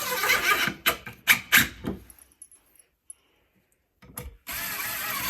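Power drill driving a screw into a wooden bed frame in two runs. The first runs for about a second and ends in a few sharp clicks. The second starts near the end after a short pause.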